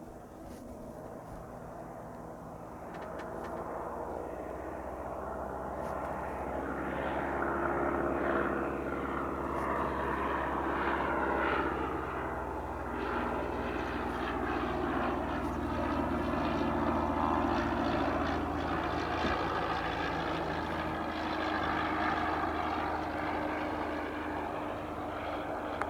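Single-engine Cessna 172 Skyhawk propeller plane on landing approach. Its engine and propeller grow louder over the first eight seconds or so, then run steadily as it passes close by.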